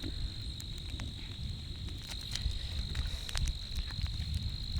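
Crickets trilling in one steady high tone, with a low rumble and scattered faint clicks underneath.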